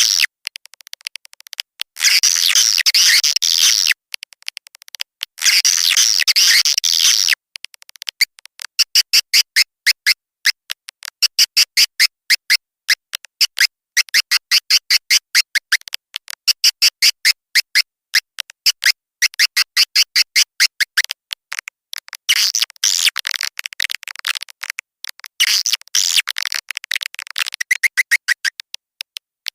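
Swiftlet calls played as a lure for a swiftlet nesting house. Dense, high-pitched twittering bursts alternate with long runs of rapid, evenly repeated chirps, several a second, through the middle, and the dense twittering returns near the end.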